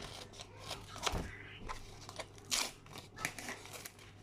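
Crunching of microwave-baked cornflour (cornstarch) chunks being bitten and chewed: a string of irregular crisp cracks, the loudest about two and a half seconds in.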